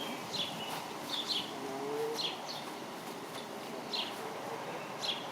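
Small bird chirping repeatedly, short high chirps roughly once a second, over steady background noise.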